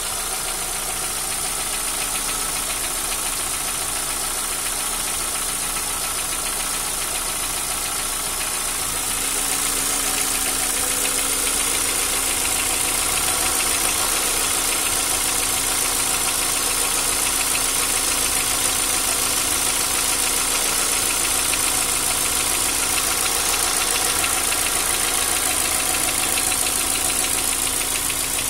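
Car engine idling with a fast, steady ticking from the valve train: the knocking of hydraulic lifters (hydraulic lash adjusters). It gets slightly louder about nine seconds in.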